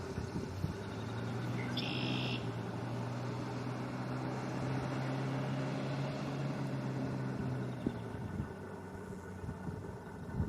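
A distant engine drones steadily for about seven seconds and then fades, over a constant outdoor background hiss. A short high-pitched sound comes about two seconds in.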